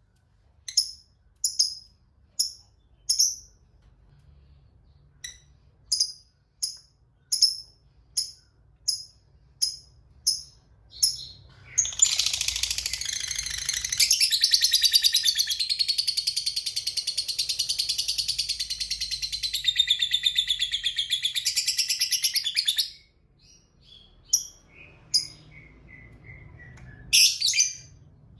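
Lovebird giving sharp, high single chirps about twice a second. About twelve seconds in, it breaks into a long, rapid, continuous chattering trill (the prized "ngekek panjang") lasting about ten seconds, then goes back to scattered chirps.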